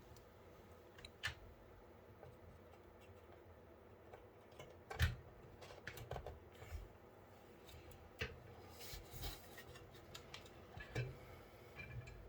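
Scattered light clicks, taps and scrapes of computer hardware being handled and fitted into a PC case. The loudest knock comes about five seconds in.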